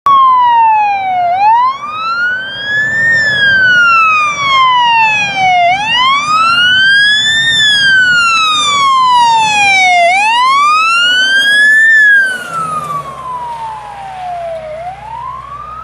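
Fire engine's siren on a slow wail, rising and falling about every four and a half seconds over the truck's engine and road rumble. After about twelve seconds the rumble drops away and the whole sound gets quieter as the wail goes on.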